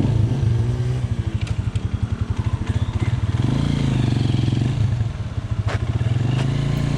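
Motorcycle engine running as the bike pulls away, with a fast, even pulse. Its level dips briefly about five seconds in, then picks up again.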